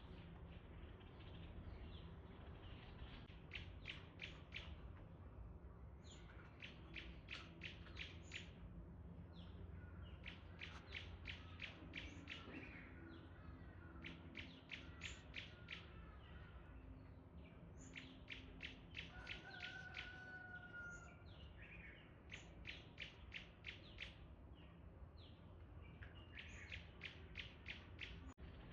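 Birdsong: runs of short, sharp chirps, about five or six a second, repeated in bursts every few seconds, with an occasional longer whistled note, over a faint low steady hum.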